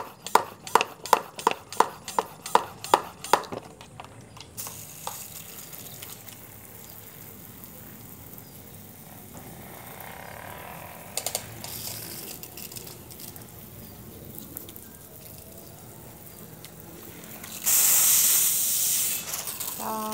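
Hand spray bottle squirting water over a pet bird: a quick series of squirts, about three a second, for the first few seconds, then a low hiss, then a louder hiss of spray for about two seconds near the end as the bottle runs nearly empty.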